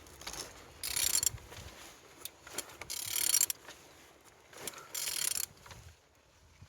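Used car engine being turned over by hand: three bursts of metallic ratcheting about two seconds apart as a tool works the crankshaft round, with small clicks between them.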